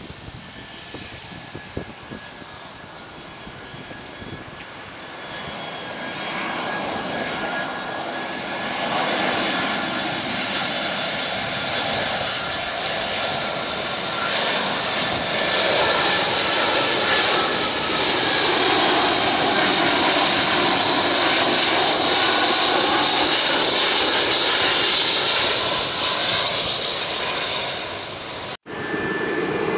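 Jet airliner's engines roaring past, growing louder over several seconds and holding a loud, steady roar with a high whine before easing off. The sound drops out abruptly near the end.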